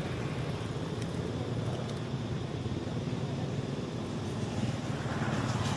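Steady low engine rumble of a motor vehicle running, with a few faint ticks and a slight swell near the end.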